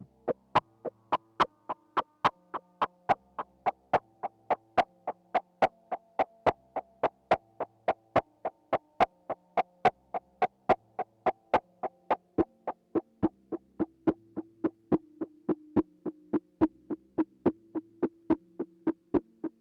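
AEM modular synthesizer patch playing: sharp, evenly spaced clicks a little over two a second over soft sustained tones that step between notes of a sequence.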